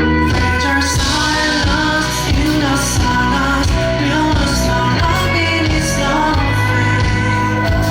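Live pop-rock band music with singing, heavy bass and guitar, amplified in a concert hall.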